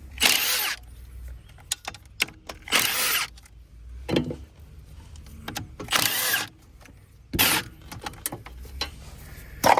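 A seized-or-not check on an old ATV engine: four short pulls that spin the engine over by hand, each a brief whirring rush, with clicks and knocks of handling between. The engine spins freely without starting.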